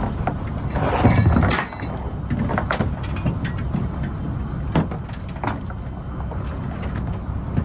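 Fishing trawler's engine running steadily, with scattered knocks and clatter and a louder rush of noise about a second in.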